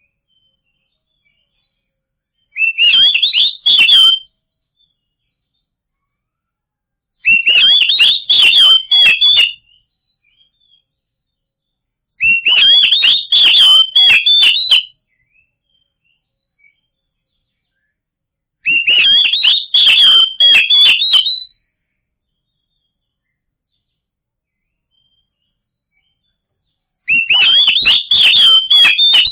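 Oriental magpie-robin (kacer) song: five short bursts of rapid, varied whistled phrases, each lasting two to three seconds and separated by several seconds of silence. The last burst is cut off at the end.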